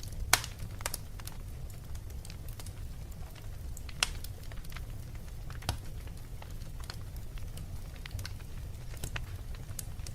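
Wood fire in a fireplace crackling, with irregular sharp pops over a low steady rumble; the loudest pops come just after the start and about four seconds in.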